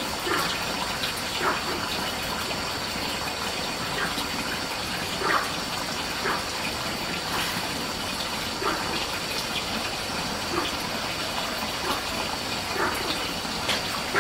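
Steady rush of running water, with short sharp sounds every second or so.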